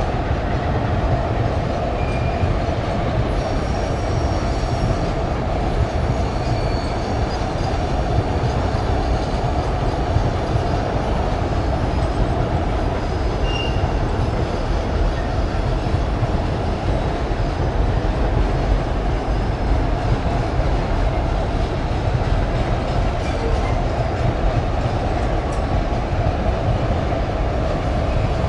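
Freight train wagons rolling past with a steady, unbroken rumble of wheels on rail, and a few brief, faint wheel squeals.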